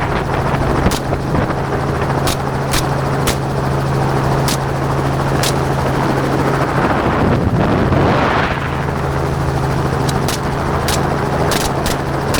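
Helicopter engine and rotor running steadily in flight, with about a dozen short sharp cracks of rifle shots scattered through it and a swell of rushing noise about eight seconds in.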